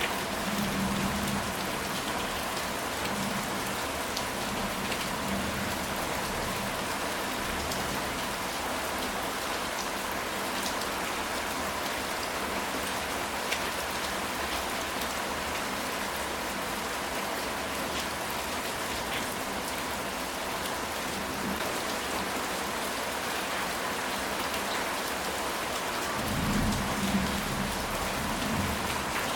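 Steady rain falling on a ceramic tile roof, a constant patter of drops, with a low rumble of thunder near the end.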